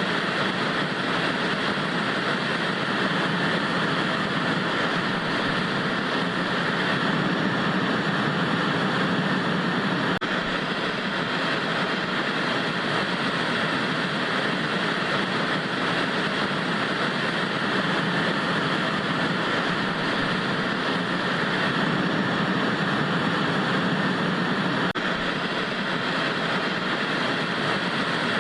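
Steady hiss of analogue television static, like a set tuned to an empty channel, holding an even level without change.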